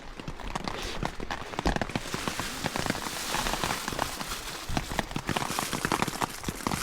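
Rain pattering: a dense, irregular tapping of drops hitting a surface over a steady hiss.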